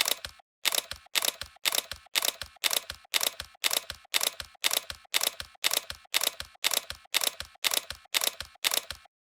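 A regular series of sharp mechanical clicks, about two a second, like a camera shutter firing repeatedly. It cuts off abruptly near the end.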